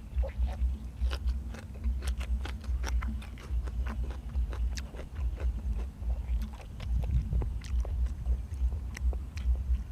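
Close-up eating sounds of braised pig head and vegetables: irregular wet clicks and crunches of biting and chewing, over a low, pulsing rumble.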